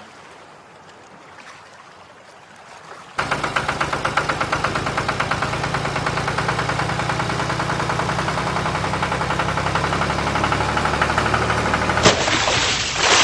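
A rapid, pulsing engine-like running sound starts suddenly about three seconds in and keeps going steadily, then a short hissing whoosh near the end.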